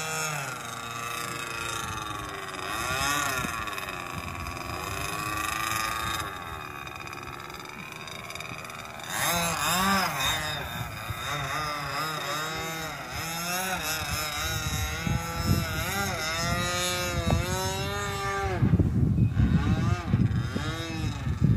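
Gas-powered engine of a Primo Laser RC airplane running in flight, its pitch rising and falling repeatedly.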